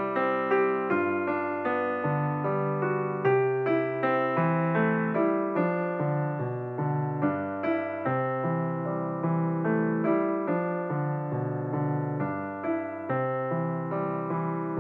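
Background piano music: a flowing run of notes and chords, each struck and then fading.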